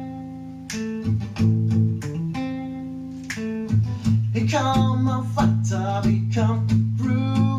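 Acoustic guitar strumming chords, each one struck and left to ring for about a second. About four seconds in, a melody with sliding pitch joins over a steady low bass note.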